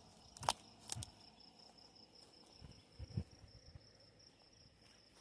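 Faint, steady high-pitched trill of an insect, running on without a break, with a few soft knocks about half a second, one second and three seconds in.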